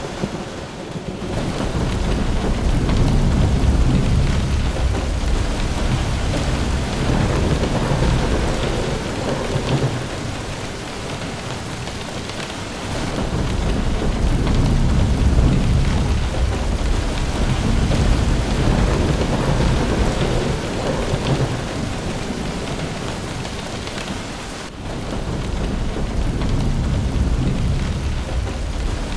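Heavy rain with thunder, the low rumble swelling and fading in long rolls several times.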